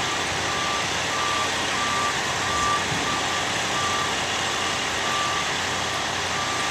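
A vehicle's reversing alarm beeping steadily, a single high tone repeating a little under twice a second, over constant loud background noise.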